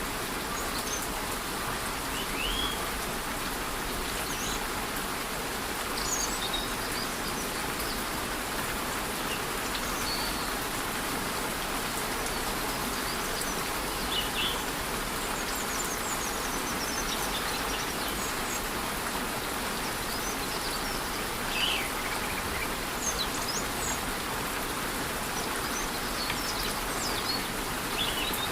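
Steady rush of a rainforest waterfall and light rain, with short bird chirps breaking in every few seconds.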